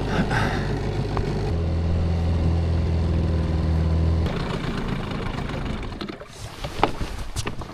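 An engine running at a steady speed. Its hum jumps louder about a second and a half in, drops back a few seconds later and fades out, and a few sharp knocks follow near the end.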